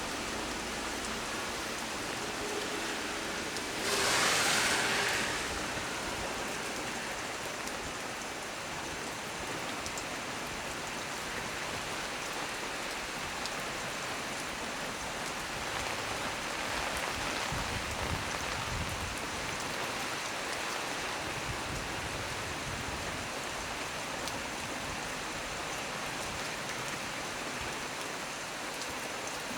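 Heavy rain falling steadily on tree leaves, a constant hiss of drops. About four seconds in there is a brief, louder surge of hiss lasting a second or so.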